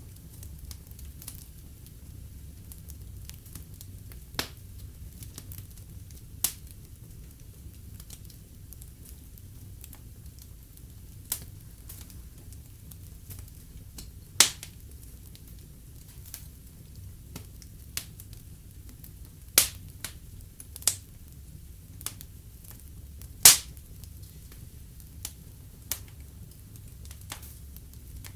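Fireplace fire burning, crackling with irregular sharp pops of varying loudness over a steady low rumble; the loudest pops come about halfway through and again later on.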